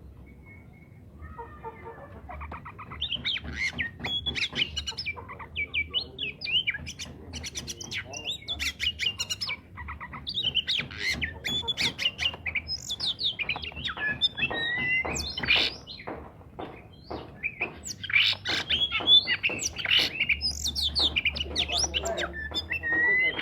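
Oriental magpie-robin (kacer) singing in full voice: a rapid, varied run of chirps, whistles and short gliding notes that starts about a second in and carries on without a break.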